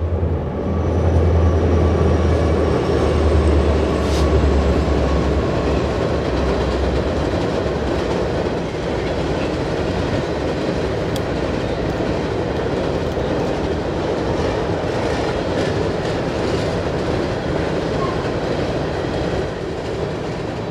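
Freight train of covered hopper cars crossing a steel girder railway trestle: a low diesel locomotive drone fades out over the first several seconds, leaving a steady rumble and clickety-clack of car wheels on the bridge.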